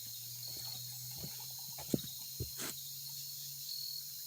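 Steady high-pitched chorus of insects such as crickets, with a low steady hum underneath and a couple of sharp clicks about two seconds in.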